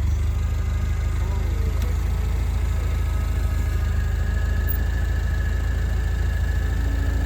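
An engine running steadily at idle with a deep, even rumble; about three seconds in a steady high-pitched whine joins it and holds.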